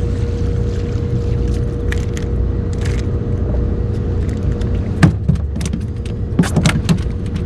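Small boat's motor running steadily, a low rumble mixed with wind-like noise on the microphone. A few sharp knocks come in the second half, the loudest about five seconds in.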